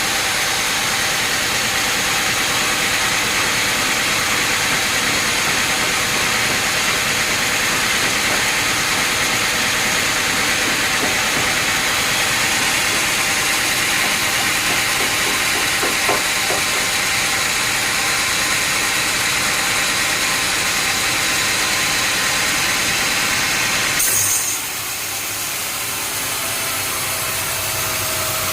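Sawmill machinery running steadily: an even rushing noise with a faint high whine. About 24 seconds in it cuts off abruptly to a quieter, lower hum.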